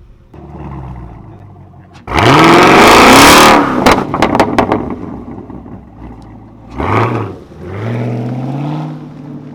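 A car engine revving hard. About two seconds in the revs jump and climb loudly, then fall away with a string of sharp cracks. A short blip follows, then another long rev near the end.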